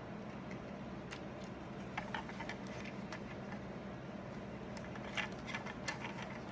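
Faint, scattered clicks and taps of small 3D-printed plastic car parts being handled, over a low steady hum.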